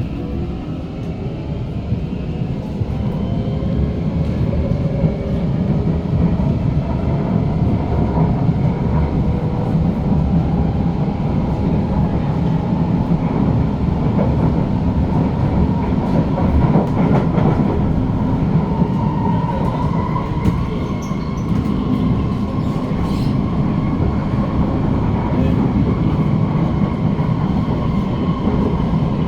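SMRT C151 metro train running, heard from on board: a steady rumble of wheels on rail with a motor whine that rises in pitch over the first ten seconds as the train gathers speed, then holds at a steadier pitch as it cruises.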